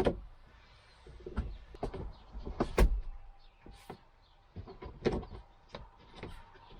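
Irregular clicks and knocks of hand work on a car's interior: plastic trim and tools being handled and fitted back in place. The loudest knock comes about three seconds in.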